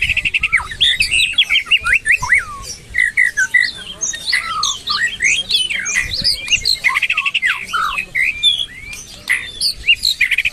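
White-rumped shama and oriental magpie-robin singing: a non-stop stream of loud, fast, varied whistles and slurred notes mixed with harsh notes, broken by rapid rattling trills at the start, around the middle and again near the end.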